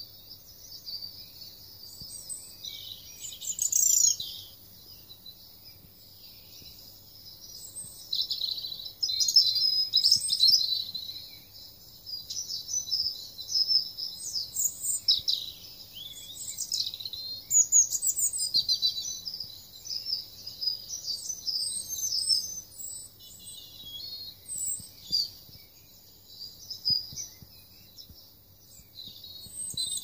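Small birds chirping and singing, many short high-pitched calls and trills overlapping and coming and going in clusters.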